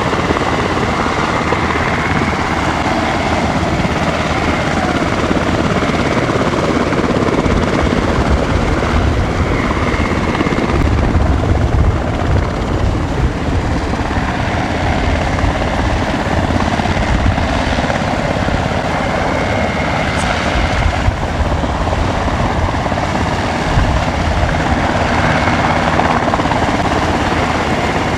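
JMSDF SH-60K Seahawk helicopter hovering close by: steady loud rotor and twin-turboshaft noise with a high whine over a low rotor beat that swells now and then.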